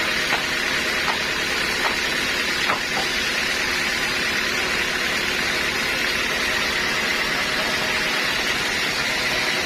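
Sawmill saw running with a steady, even mechanical noise and a few light ticks in the first few seconds.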